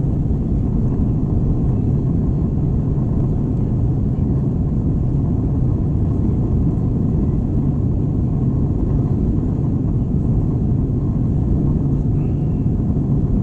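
Steady low rumble inside the cabin of an Airbus A321 in flight or on the ground, from its engines and the airflow, with no change in level.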